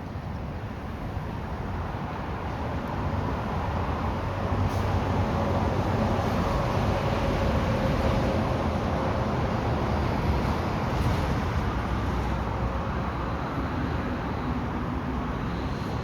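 A road vehicle passing: a broad rumble and hiss that swells over several seconds, peaks in the middle and slowly fades.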